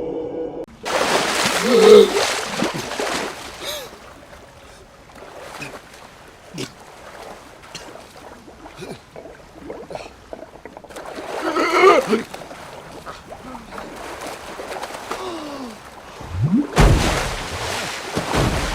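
Floodwater surging in with a loud splash about a second in, then gurgling, bubbling water with further splashes near the middle and near the end.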